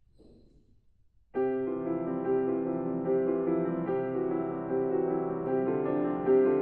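Near silence, then about a second and a half in a piano comes in suddenly and keeps playing held chords with notes changing over them.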